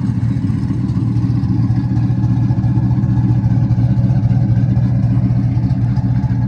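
Twin-turbo LS3 V8 in a 1970 Chevelle idling steadily.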